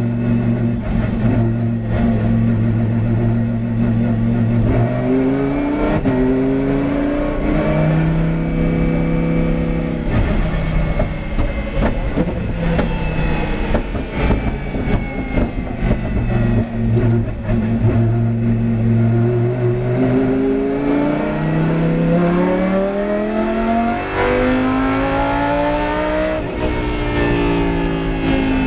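Lamborghini Huracán GT race car's 5.2-litre V10 under hard driving: the engine note holds steady, climbs in pitch over a few seconds, drops back, holds again, then climbs for about six seconds before breaking off sharply near the end and falling away.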